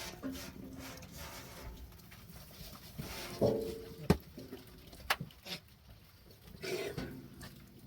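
Two short animal calls with a couple of sharp knocks between them.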